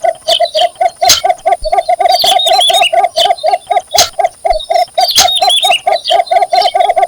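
Cinnamon bittern giving its mating call: a long, even run of short low notes, about five or six a second, without a break.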